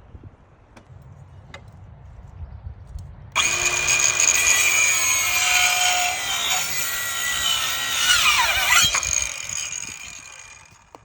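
Ryobi 18V ONE+ 4-1/2" cordless circular saw starting suddenly about a third of the way in and cutting through wood for about five seconds, then winding down with a falling pitch as it is released.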